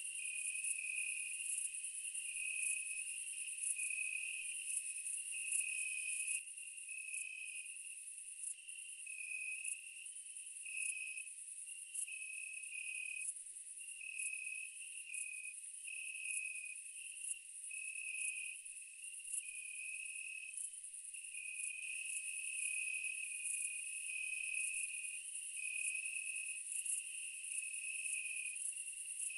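Insect chorus: a steady high-pitched trill under a lower insect call that repeats in short pulses, a little more than one a second. No eruption sound is heard.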